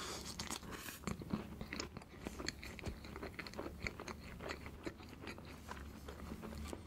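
Close-miked chewing of a big mouthful of crêpe layer cake: a run of many small, irregular mouth clicks and smacks.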